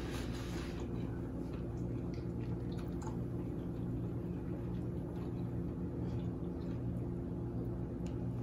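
A person chewing food with the mouth closed: soft wet squishes and small clicks, over a steady low hum.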